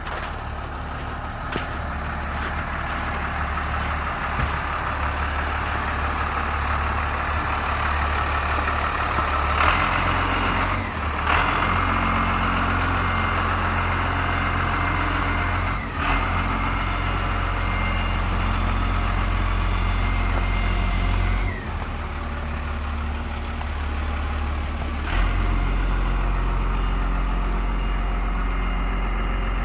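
Diesel engine of a Ford bucket truck running with a steady low drone. Its loudness steps up and down several times, rising about a third of the way in and dropping and rising again later.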